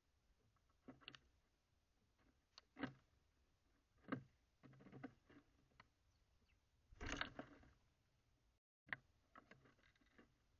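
Small birds at a seed feeder, with scattered sharp taps and clicks of beaks and feet on the feeder as they pick at seeds, and a longer scratchy rustle about seven seconds in.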